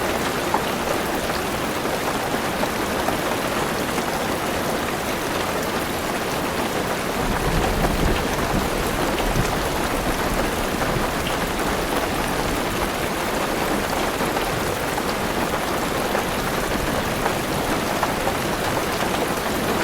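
Heavy rain drumming steadily on a car's roof and windows, with a low rumble of thunder coming in about seven seconds in.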